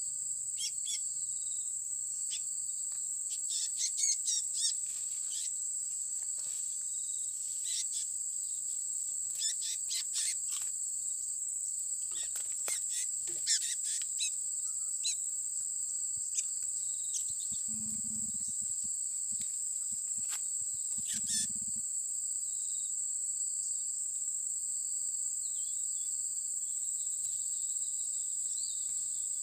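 A steady, high insect drone, with the short, high chirps of small birds coming in clusters, busiest in the first half and again around three quarters through. Two brief low rumbles come around two-thirds of the way in.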